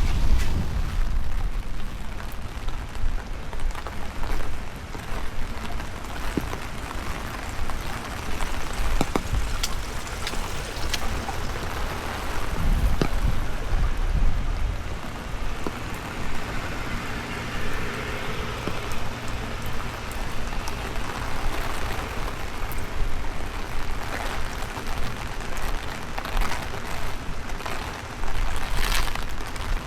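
Steady rain falling, with scattered sharp drop ticks and gusts of wind rumbling on the microphone.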